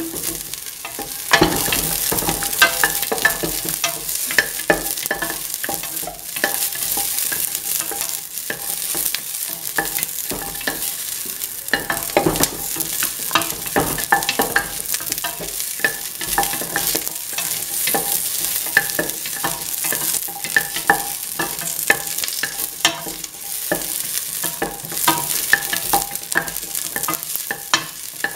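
Whole shallots sizzling in hot oil in a steel pan, with frequent clicks and scrapes of a utensil stirring them.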